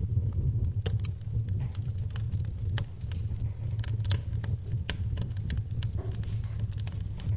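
Wood fire in a fireplace crackling, with irregular sharp pops and snaps over a steady low rushing of flames, and rain falling behind it.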